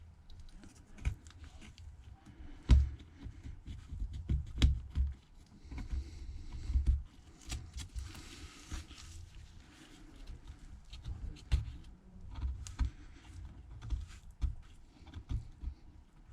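Irregular clicks, taps and scrapes of small hand tools working on the phone's frame, mixed with low knocks from handling. A longer scraping stretch comes about halfway through.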